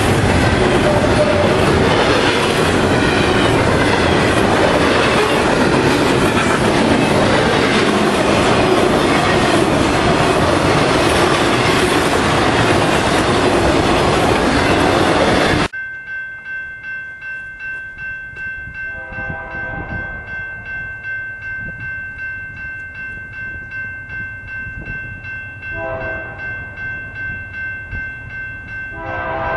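Double-stack container train passing close by at speed, a loud steady rush of rolling cars. About halfway through it cuts to a grade-crossing warning bell ringing at about two strikes a second, while a train horn sounds in the distance twice and then louder near the end.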